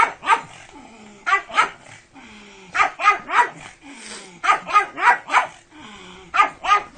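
A dog barking in quick runs of two to four barks, a run every second or two.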